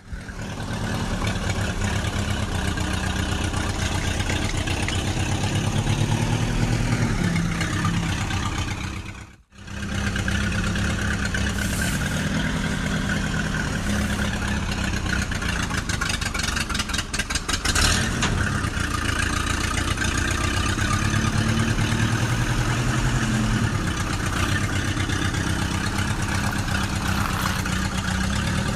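Tractor engine running steadily with a rapid pulsing beat, its pitch rising and falling slightly as it works; the sound drops out briefly about nine seconds in, and there is a short rattle near eighteen seconds.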